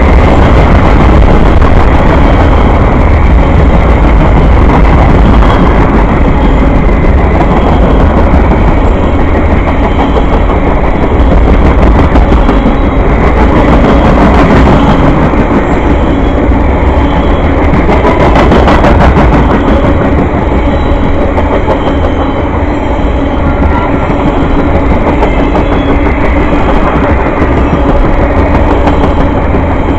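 Train passing close by, loud and steady: the rumble of wheels on the rails.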